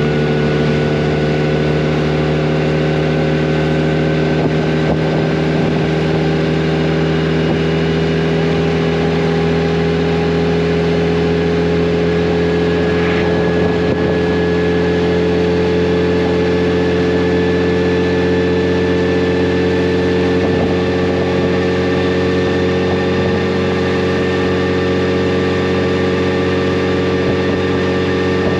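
Yamaha FJR1300's inline-four engine running at a steady cruise, its note rising very slowly as the bike gathers speed.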